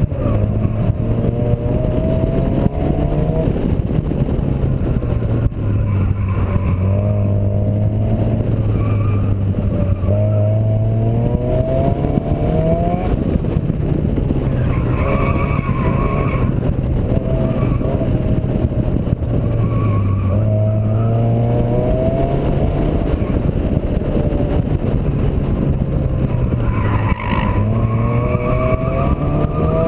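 Turbocharged Honda D16 four-cylinder engine in a Civic at track speed. It revs up several times, its pitch climbing on each pull and dropping back between pulls as the car accelerates, shifts and slows for corners.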